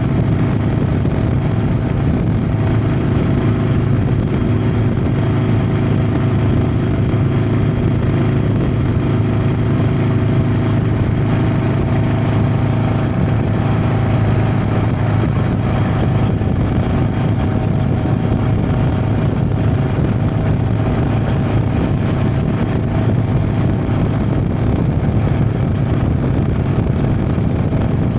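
Harley-Davidson Sportster's V-twin engine running steadily while the motorcycle is ridden along at an even speed.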